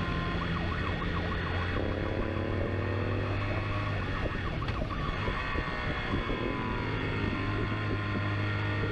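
Police siren wailing in quick up-and-down sweeps over a steady engine drone.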